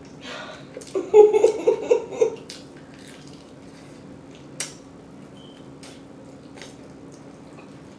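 Mouth noises of a person chewing chicken wings with her mouth full: wet smacking and scattered clicks. A muffled, pulsing vocal sound from the closed mouth comes about a second in.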